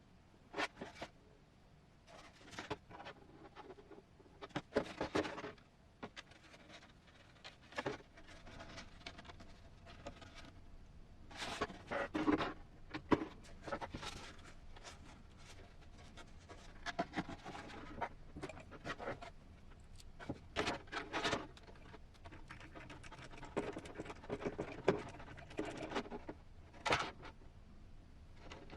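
Hard plastic RC truck body parts being handled and fitted by hand, with irregular clicks, taps and short scrapes.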